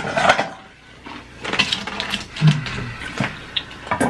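Close-up chewing and crunching of crispy fried hash browns, a run of short, irregular crackles and clicks, with a short low hum about two and a half seconds in.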